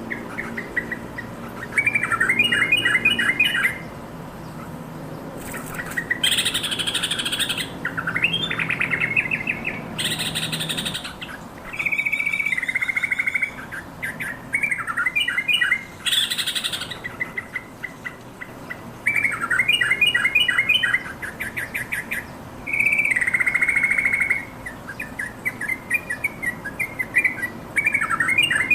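Yellow-vented bulbul song: short bubbling, chattering phrases every few seconds, alternating with louder harsh, scratchy calls.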